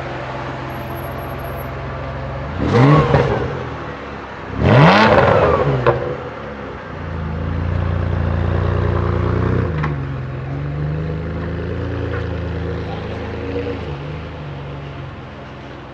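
Ferrari 575 SuperAmerica's V12 with a Novitec Rosso exhaust idling, then blipped twice in quick succession, the second rev higher and louder, with a sharp crack from the exhaust as it drops back. The engine then holds a raised steady note for a few seconds before settling back toward idle.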